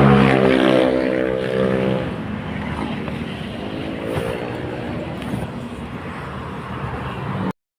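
A motor vehicle's engine running close by with a steady pitch, fading over the first few seconds while a weaker engine sound bends in pitch as it passes. The sound cuts off suddenly near the end.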